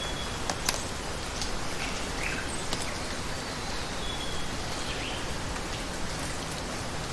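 Rainforest ambience: a steady hiss of falling or running water, with a few sharp drip-like clicks and several brief high chirps.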